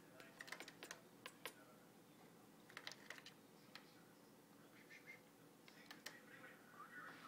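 Near silence broken by faint, scattered small clicks and taps, bunched in the first second and again about three seconds in, with a faint high squeak near the end.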